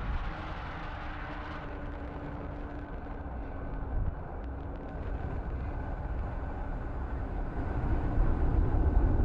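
Falcon 9 rocket's nine Merlin first-stage engines rumbling steadily during ascent, growing louder near the end.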